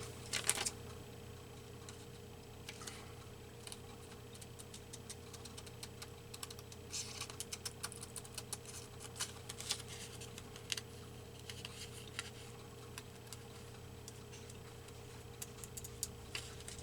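Scissors snipping paper in small, irregular cuts while a circle shape is cut out, over a faint steady hum.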